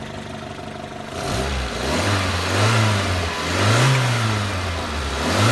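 Toyota SR5 pickup's engine idling, then revved about three times, its note rising and falling, while it feeds a dead battery through booster cables.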